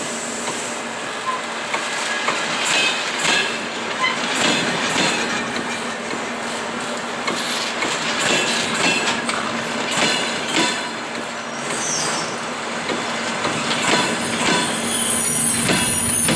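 Passenger train rolling slowly into the station, its wheels clacking over rail joints at irregular intervals. Near the end the brakes start a high, steady squeal as the train slows for its stop.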